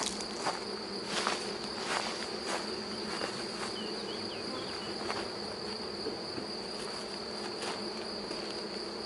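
Honeybee swarm buzzing, a steady dense hum, with a thin high steady tone over it and scattered light knocks, most of them in the first half.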